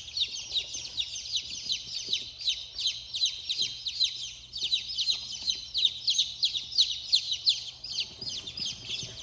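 A brood of about ten newly hatched chicks peeping continuously, many short falling cheeps overlapping one another.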